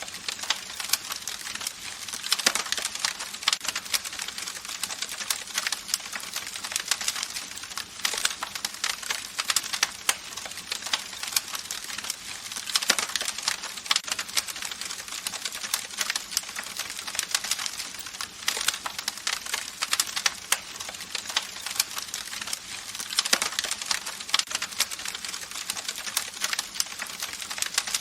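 Campfire burning with dense, irregular crackling and popping of wood over a steady hiss of flames.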